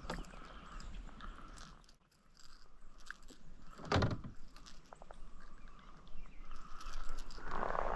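Close handling noise on a kayak while a caught bass is held: scattered clicks and scrapes, a single sharp knock about four seconds in, and louder rustling near the end.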